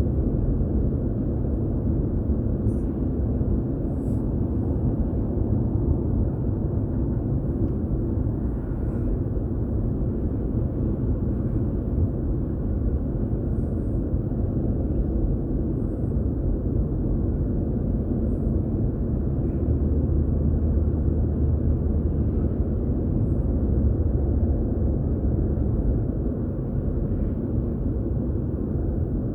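Car driving at steady speed: a continuous low rumble of road and tyre noise with engine hum, swelling slightly about two-thirds of the way through.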